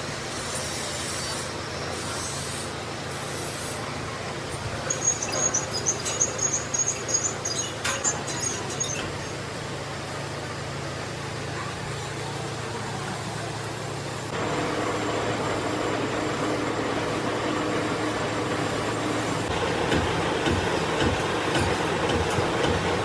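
Workshop machine tool running steadily with a low hum, with a spell of high metallic rattling and scraping about a quarter of the way in. About halfway through the machine gets louder and a higher hum joins, as its speed or load changes.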